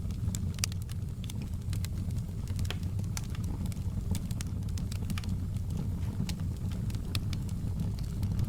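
Campfire burning: a steady low rumble of flames with irregular sharp crackles and pops of burning wood, several a second.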